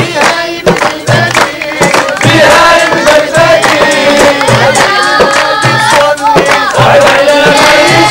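A group of voices singing a chant together, over a regular low beat about once a second and sharp percussive strikes.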